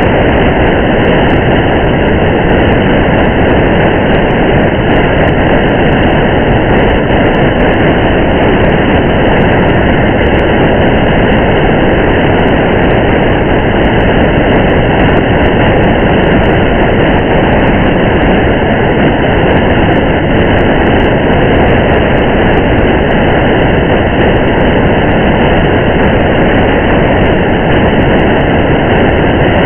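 Steady noise of a car driving through rain on a wet highway: an even rumble of road and rain with faint scattered raindrop ticks.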